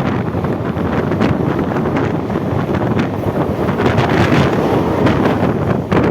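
Mumbai suburban EMU electric local train running at speed, a steady loud rumble with wind rushing over the microphone and scattered short clacks.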